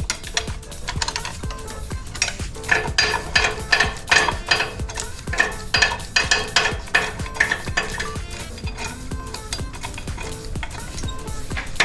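Metal hand tools clicking and clinking rapidly and irregularly against Prius Prime engine parts during disassembly, loudest in the middle stretch.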